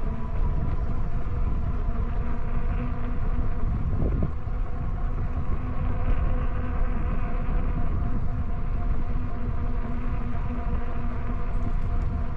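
Electric bike riding: a steady motor whine with several fixed tones, over low wind rumble on the microphone.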